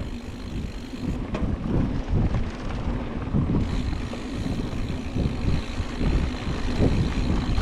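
Mountain bike rolling over a dirt singletrack trail: an uneven rumble of tyres and bike over the bumps, with wind buffeting the action camera's microphone.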